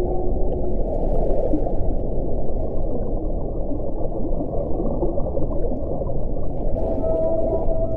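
Wind blowing in a steady low rush, with faint howling tones that come and go: one fading out near the start and another coming in near the end.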